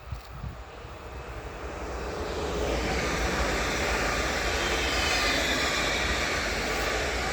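PKP Intercity ED160 (Stadler FLIRT) electric multiple unit passing at speed: a rushing noise that swells over the first three seconds and then holds.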